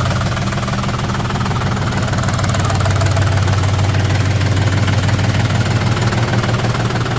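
Tractor diesel engine running steadily at idle, a constant low drone with a knocking diesel clatter.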